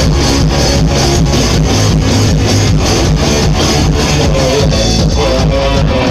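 Rock band playing live, loud: strummed electric guitars over bass and drums, with drum hits beating a quick steady rhythm.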